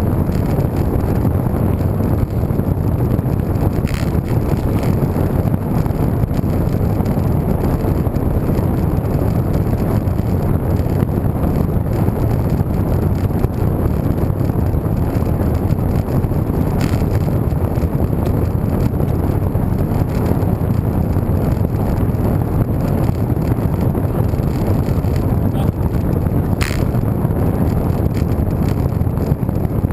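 Steady wind rushing over the microphone of a camera riding on a moving road bike, with a few faint clicks.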